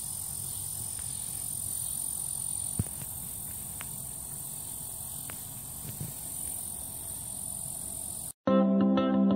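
Evening chorus of crickets, a steady high-pitched trill, with a few faint clicks. Near the end it cuts off suddenly and strummed acoustic guitar music begins.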